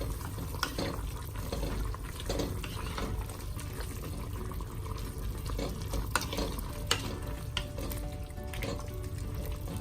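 Pot of beef sinigang broth bubbling at a boil, with a few sharp clinks of a utensil against the pot, once about half a second in and twice around six to seven seconds in.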